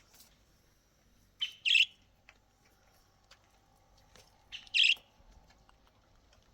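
A bird chirping: two short double chirps, about three seconds apart.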